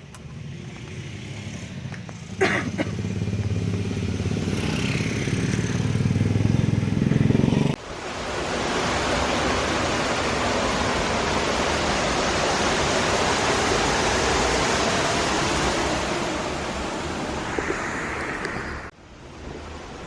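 A motor vehicle's engine running, its low rumble building over several seconds, then a sudden cut to a loud, steady rushing noise.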